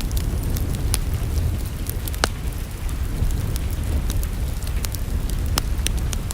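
Wood fire crackling in a fireplace: scattered sharp pops and snaps over a steady low rumble of the burning fire.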